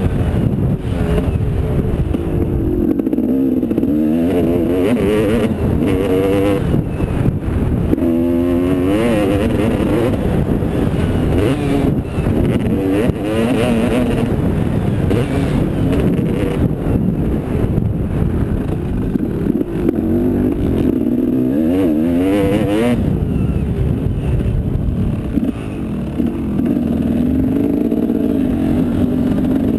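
Motocross bike engine revving hard, its pitch sweeping up and falling back again and again as it accelerates and shifts.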